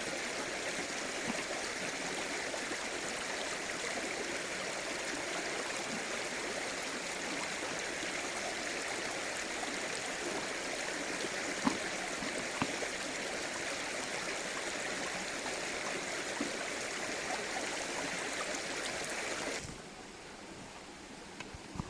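Small mountain stream running steadily over rocks, an even rush of water with a few faint ticks in it. Near the end it drops suddenly to a much quieter background.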